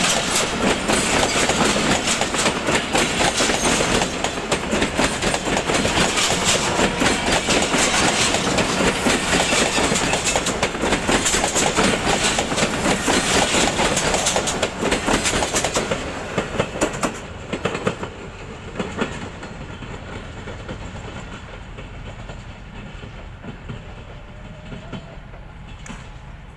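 Train of passenger coaches rolling past close by, with steel wheels clattering over the rail joints in a dense run of clicks. The clatter dies away about two-thirds of the way through as the tail of the train passes, leaving a fainter receding rumble.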